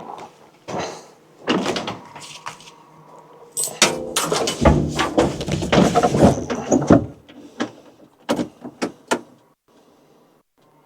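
Knocks and clatter of a tractor door and controls being worked, then from about four to seven seconds in a loud rumble as the tractor's engine is cranked over, followed by a few sharp clicks.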